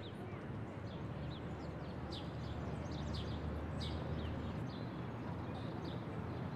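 Small birds chirping many times over a steady low rumble of outdoor background noise.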